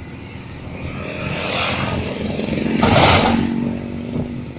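Vehicle engine running and revving up, building to a loud peak with a noisy rush about three seconds in, then easing off.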